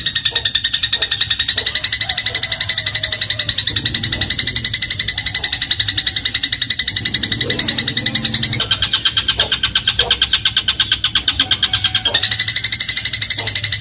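Eurasian tree sparrow singing a fast, continuous trill of repeated chirps. The trill drops to a lower pitch about eight and a half seconds in and steps back up about twelve seconds in.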